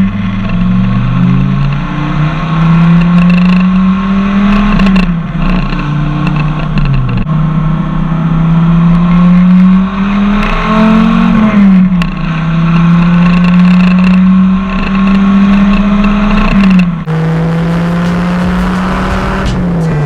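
Dodge Viper RT/10's V10 engine running under way, its pitch climbing and then dropping several times as it shifts gears, with steady cruising stretches between.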